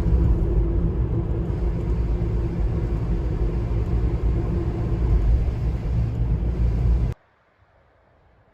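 Loud steady low rumble that cuts off abruptly about seven seconds in, leaving only a faint background.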